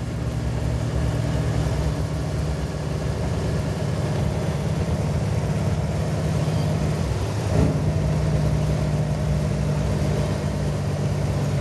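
Truck engine running steadily at low revs while the loaded rig slows in traffic, with one brief knock about two thirds of the way through.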